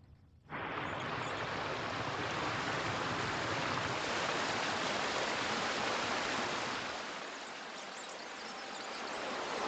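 Rushing stream water, a steady noise that cuts in abruptly about half a second in, dips a little, then swells again near the end.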